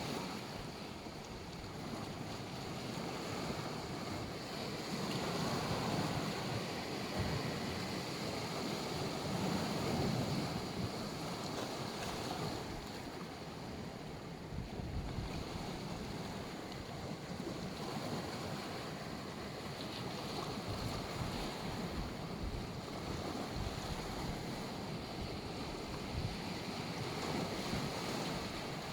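Sea waves washing onto a beach, swelling and falling back in slow surges, with wind buffeting the microphone in short low thumps.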